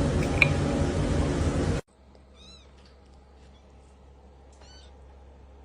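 Loud steady noise that cuts off suddenly about two seconds in, followed by two short, high-pitched cat meows about two seconds apart.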